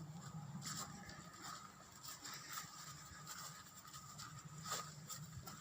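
Faint quiet background with a few soft, scattered taps and clicks.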